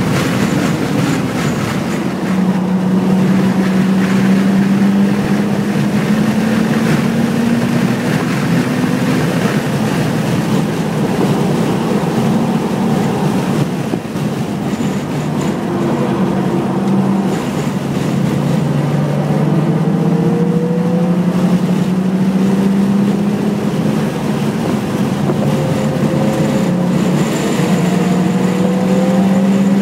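BMW 330 engine under hard load on a track lap, its note climbing slowly in pitch and falling back several times as the car shifts or slows for corners, over steady road and wind noise.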